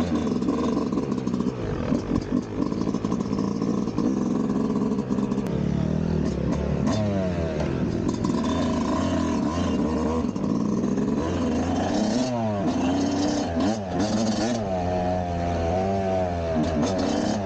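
Yamaha YZ250 two-stroke dirt bike engine being ridden at part throttle, no more than half. It runs steadily at first, then rises and falls in pitch several times as the throttle is opened and closed.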